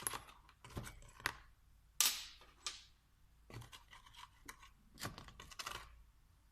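Hands working on a VE diesel injection pump: small metal parts and tools clicking, knocking and scraping at irregular intervals, with one louder scraping rush about two seconds in.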